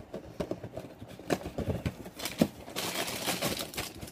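Dry Shreddies wheat cereal with peanut butter being chewed close to the microphone: irregular crunches and clicks, growing into a denser crackle about three seconds in.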